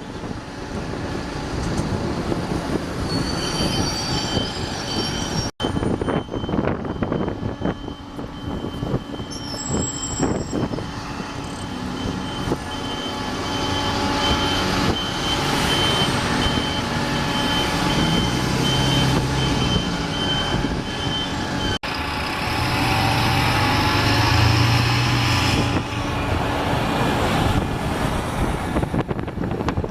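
Heavy vehicle running past, with a steady high-pitched squeal for most of the first two thirds that stops suddenly; after that the low engine noise grows louder.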